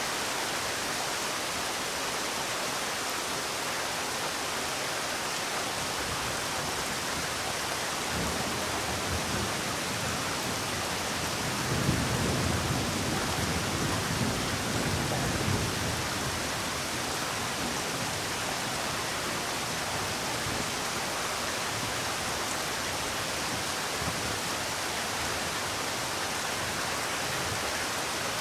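Steady rain falling. A low rumble swells in about a third of the way through, peaks near the middle, and fades out again.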